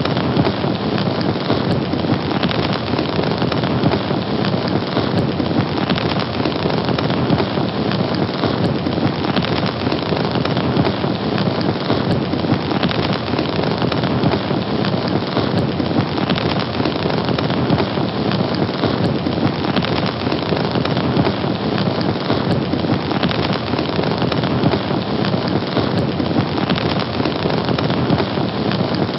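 A fire burning steadily, with a dense, continuous crackle that does not let up.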